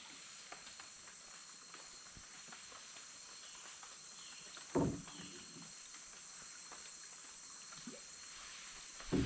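Steady high-pitched insect chorus of the rainforest, with faint scattered clicks and a single dull knock about five seconds in.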